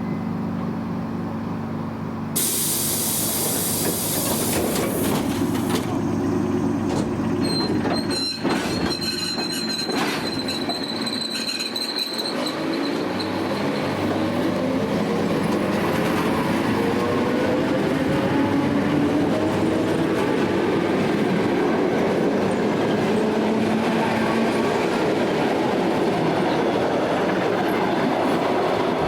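ED9M electric multiple unit pulling away and accelerating. There is a hiss about two seconds in, a brief high wheel squeal with clicking over the rails around eight seconds in, and then the traction motors' pitch rising steadily over the rolling of the wheels.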